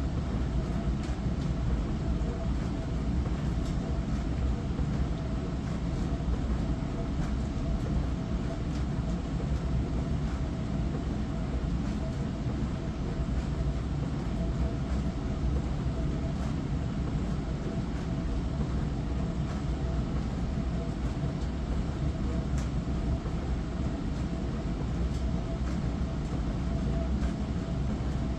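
Hava glass-front dishwasher running a wash cycle: a steady pump hum under water spraying over the dishes, with faint scattered ticks.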